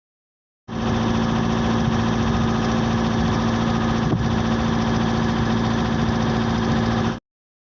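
Caterpillar 317 D2 wheeled excavator's four-cylinder diesel engine running with a misfire that makes it shake and smoke. It cuts in abruptly under a second in and cuts off abruptly near the end.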